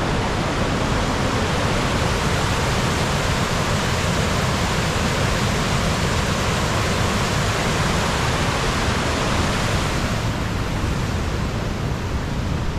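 Waterfall in full flood after heavy rain, roaring: a loud, steady rush of falling water. The hiss softens slightly about ten seconds in.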